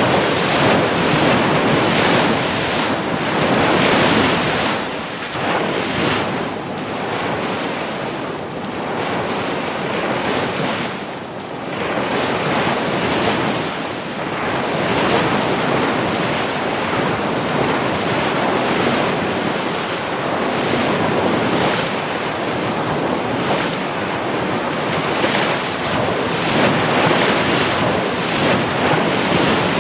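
Ocean waves breaking and washing in, a continuous surf rush that swells and ebbs every few seconds, with wind buffeting the microphone.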